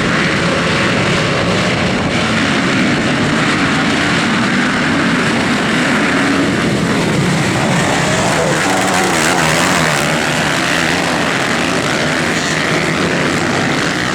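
Several motocross bikes' engines running together at race pace, their pitch rising and falling as the riders rev and shift.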